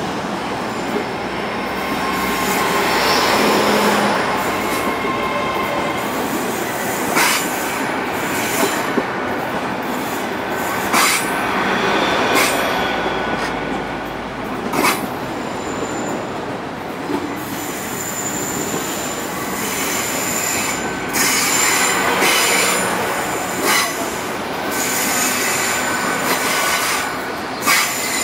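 GWR Intercity Express Train rolling slowly along the platform, its wheels running on the rails with occasional sharp clacks. A thin, high wheel squeal comes in over the second half.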